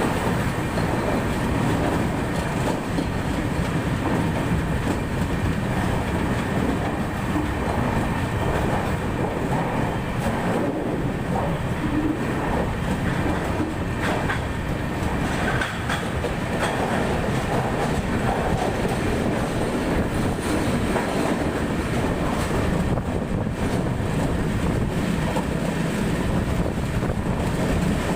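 Netravati Express passenger train running steadily, its wheels clattering over the rail joints.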